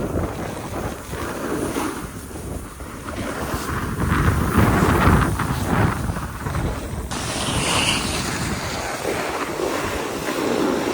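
Wind buffeting the microphone in uneven gusts, a loud low rushing that swells about four seconds in, with a higher hiss added a few seconds later.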